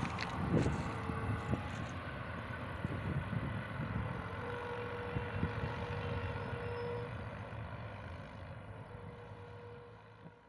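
Goods train rolling away along the track: a steady rumble of wheels on rail, with a few sharp clicks in the first couple of seconds, fading away over the last few seconds as the train recedes.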